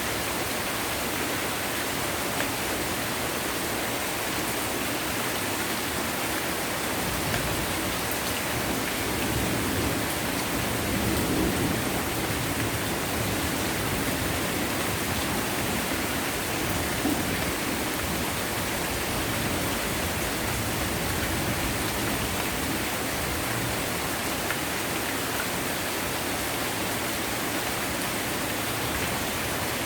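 Heavy rain pouring steadily in a dense, even hiss, swelling slightly about a third of the way through.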